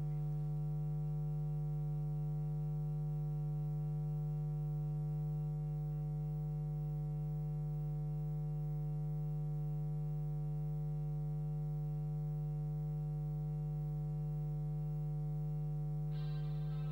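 Steady electrical mains hum, a constant buzz with many overtones and an unchanging level. Guitar music starts right at the end.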